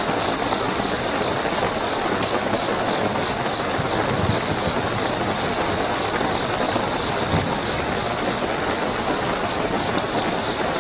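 Heavy, steady rainfall with a continuous high-pitched cricket chirring running over it.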